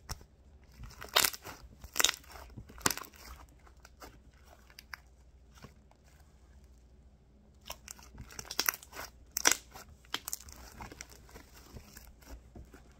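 Fluffy slime being squished and pressed in the hands, giving sharp pops and crackles: three loud pops in the first three seconds, a quieter stretch, then a dense run of crackling pops about eight to ten seconds in.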